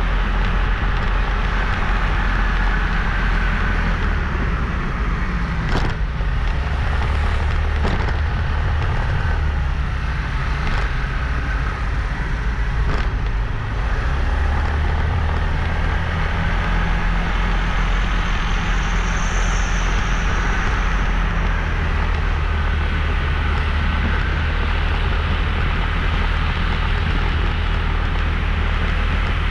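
Motorbike on the move: steady low rumble of wind buffeting the microphone over the engine running, with a couple of sharp knocks about six and eight seconds in and a brief high-pitched tone near the two-thirds mark.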